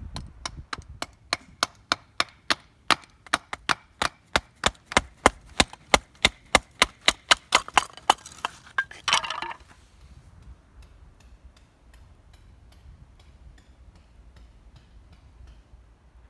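A fast, regular series of sharp knocks, about three to four a second, growing louder, with a brief noisy burst about nine seconds in. Fainter knocks follow at a similar pace.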